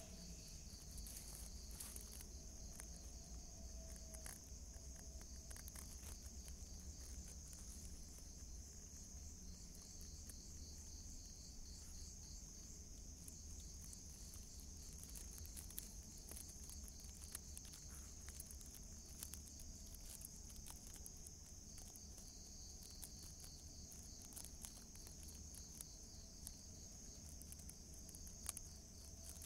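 Night insects, crickets or the like, trilling steadily in a faint high-pitched chorus, with a low hum and scattered faint ticks underneath.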